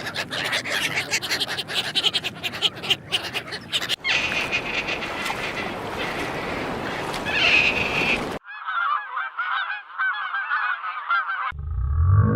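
A flock of waterfowl honking and calling in abruptly cut clips. About eight seconds in, it switches to a run of quick, thin chirping calls.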